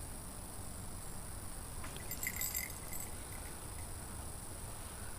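Quiet outdoor ambience with a steady low rumble, broken about two seconds in by a brief light metallic jingle, like keys or small tags clinking.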